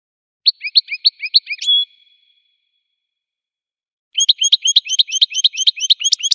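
Goldfinch song: a short phrase of quick, repeated chirping notes ending in a brief held note, then after about two seconds of silence a longer run of the same quick notes.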